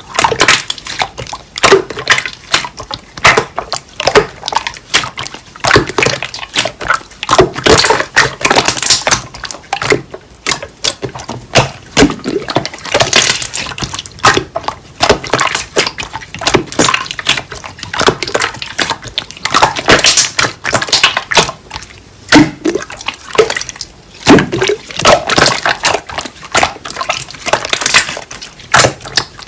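Slime being squished and kneaded by hand, giving a dense run of wet clicks, pops and squelches.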